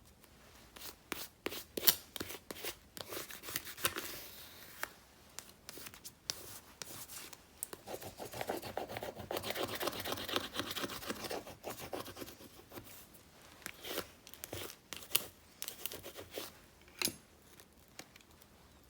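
Paper and sticker sheets being handled at a desk for journal decorating: scattered light taps and short rustles, with a few seconds of continuous scratchy rubbing or cutting near the middle.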